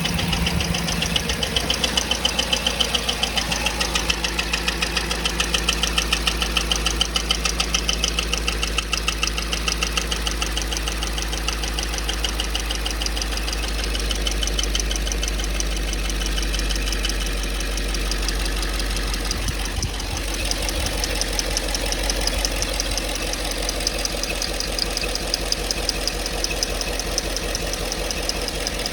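GM 5.3-litre V8 engine idling with a rapid, steady tapping that comes with each turn of the engine: the odd tapping noise the owner is chasing.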